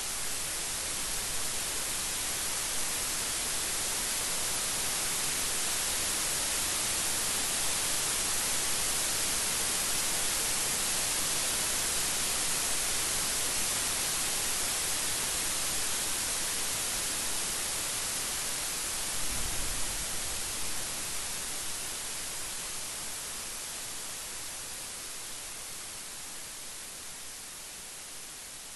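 Steady heavy rain, a dense even hiss. About two-thirds of the way in comes a brief low rumble, and the rain then slowly grows quieter toward the end.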